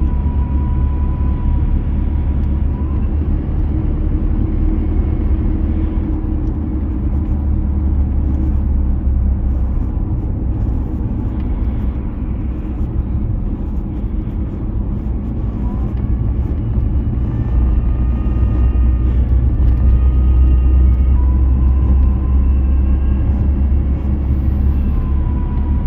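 Nissan Navara D40 2.5-litre diesel running, a heavy drone with a thin high whine over it that comes and goes and shifts in pitch as the revs change. The owner finds the whine starts above about 1500 rpm and quietens a bit around 2000 rpm, and does not know its cause.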